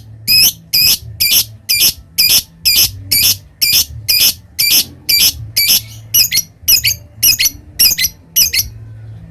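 Lovebird in a long 'ngekek' chatter: a run of about twenty harsh, high-pitched shrieks at a little over two a second, breaking off shortly before the end.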